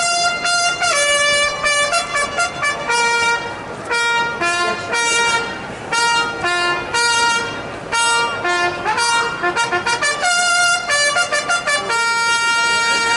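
Brass band playing a tune in short phrases of trumpet-led chords, settling into a long held chord near the end.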